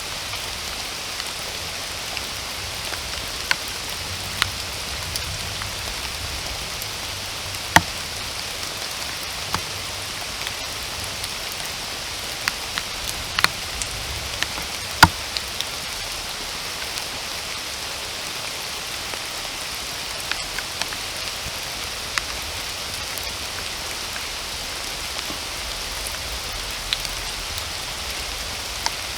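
Steady rain, an even hiss, with heavy drops landing close by as scattered sharp ticks, the loudest about 8 and 15 seconds in.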